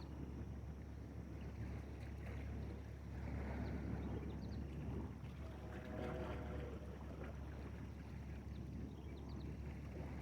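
A small boat on the water: a steady low hum under a noisy wash of water and wind, swelling briefly a few times.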